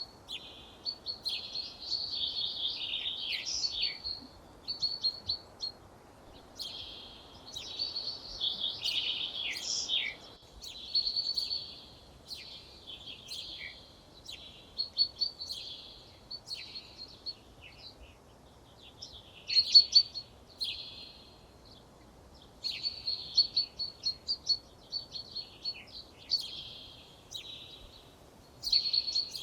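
Songbirds singing: a run of high-pitched phrases of quick trills and chirps, each a second or two long with short pauses between.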